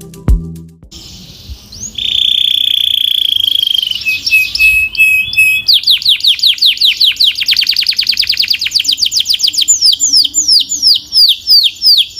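Belgian canary singing loudly: a held buzzy trill, a few chattering notes, then a fast run of quick repeated down-sweeping notes that slows to about three notes a second near the end.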